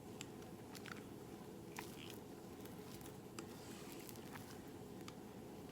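Fluffy slime being mixed and squished: faint sticky squelches and little clicks, scattered irregularly over a steady low hum.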